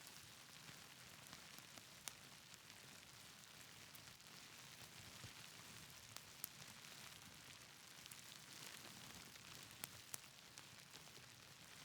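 Faint, steady hiss of rain with a wood fire crackling, its sharp pops standing out a few times, about two seconds in, in the middle and twice close together near the end.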